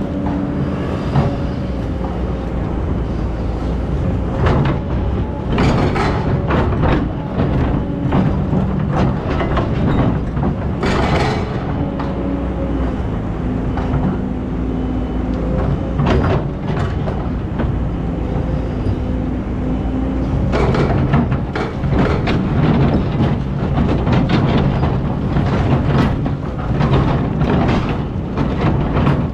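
Hydraulic excavator's diesel engine running under load, its pitch shifting now and then as it works, with frequent clanks and scrapes from the bucket and stones.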